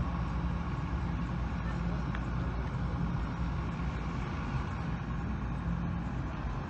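A heavy engine running steadily, a low even drone that holds without change.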